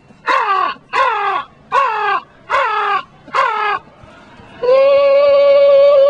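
A man's vocal bird-call imitation: five short, loud cries, each sliding down in pitch, repeated about one every 0.8 s. About three-quarters of the way in, a steady held tone with a fixed pitch begins and carries on.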